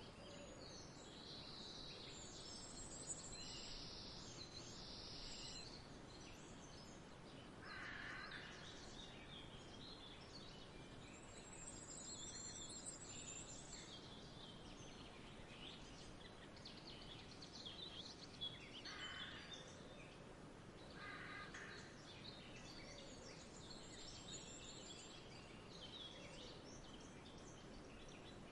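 Faint outdoor nature ambience: small birds chirping and twittering throughout, with a few lower bird calls about 8 seconds in and again around 19 to 21 seconds, over a soft steady background hiss.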